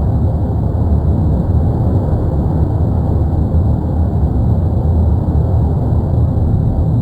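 Steady, deep rumbling roar of the erupting La Palma volcano (Cumbre Vieja), unbroken throughout.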